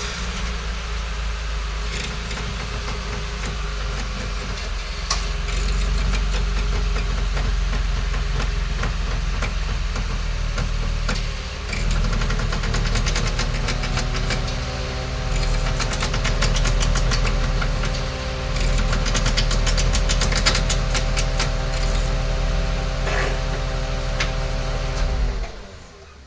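Mitsubishi Eclipse GT's V6 engine running steadily. From about halfway through, a dense run of sharp clicks and creaks sounds over it, which the owner traces to the coil springs slipping and skipping on the struts. Near the end the engine winds down and stops.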